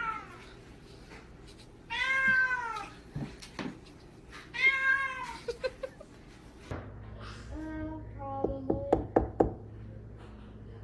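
Recorded domestic cat meows played back by Google Assistant: two long meows about 2 and 4.5 seconds in, each rising then falling in pitch. Near the end, a few sharp clicks or knocks.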